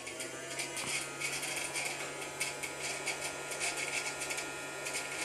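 Toy vacuum cleaner's small battery motor switched on, running with a steady hum and a continuous light rattle.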